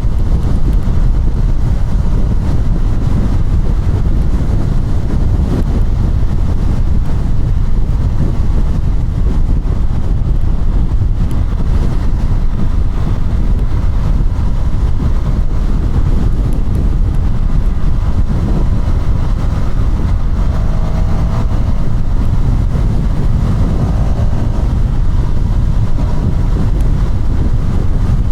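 KTM Duke 200 single-cylinder motorcycle being ridden, its engine running under a steady heavy rush of wind on the action camera's microphone.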